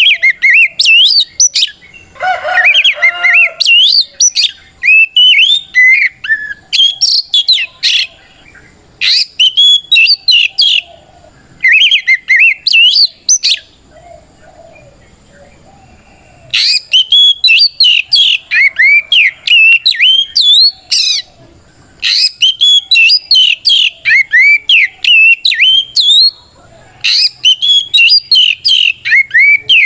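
Oriental magpie-robin (kacer) singing its loud, fast-flowing fighting song, a territorial challenge calling out a rival. The song comes as rapid runs of varied whistled notes sliding up and down, broken by short gaps, with a pause of a few seconds around the middle.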